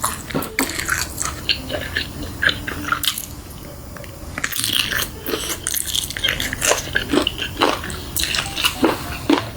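A person biting into and chewing crunchy food, in quick irregular crisp crunches, with a quieter spell about three to four seconds in.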